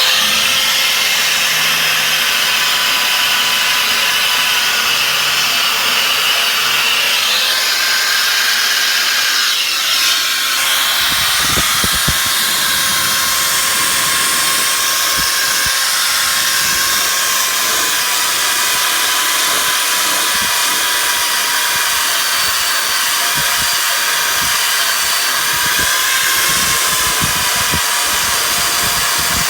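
Angle grinder fitted with a wire wheel running continuously, scrubbing rust and scale off a steel truck frame: a steady motor whine under a dense hiss of wire on metal.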